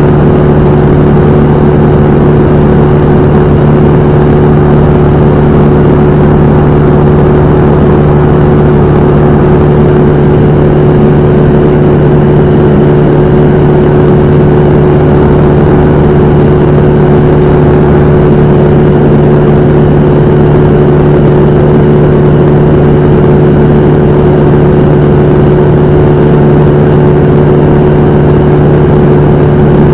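Cessna 172M's four-cylinder Lycoming engine and propeller running steadily at constant speed, with a loud, unchanging hum.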